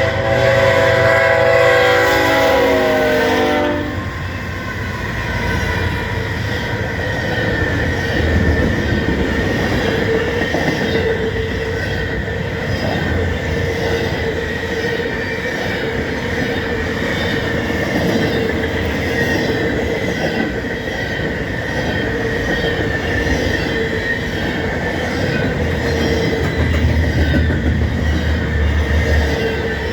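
Locomotive air horn of a GE ES44AC-led stack train sounding a chord for the crossing, its pitch dropping slightly as it passes, cutting off about four seconds in. Then the double-stack cars roll steadily past, with clattering wheels, a steady wheel squeal and a low rumble that rises and falls.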